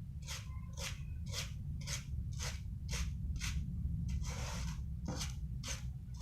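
Cat litter scratched and raked in short strokes, about two a second, with one longer scrape a little past four seconds in. A steady low hum runs underneath.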